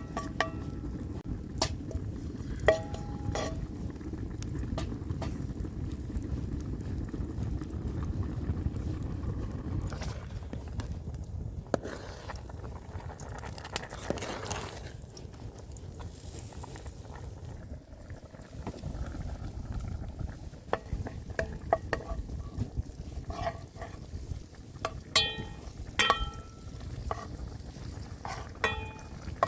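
A metal utensil stirring and clinking against a cooking pot. A steady low rumble runs through the first third, and ringing metallic clinks come in quick clusters near the end.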